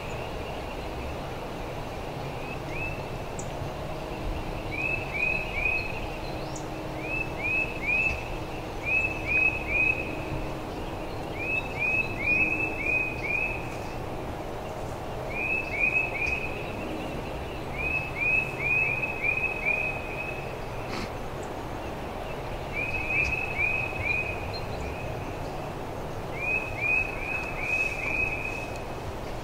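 A songbird singing short phrases of three to six quick whistled notes, repeated every couple of seconds over a steady low background noise.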